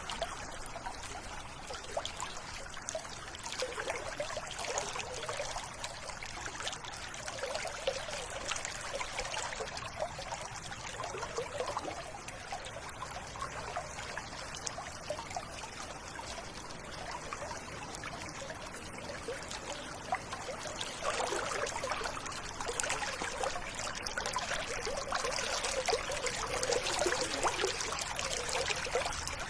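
River water running and burbling steadily, a little louder in the last third.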